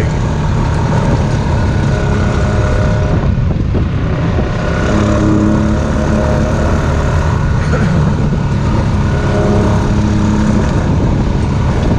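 ATV engine running steadily under way on a trail, its pitch holding at a cruising pace with only small changes, over rushing road and wind noise.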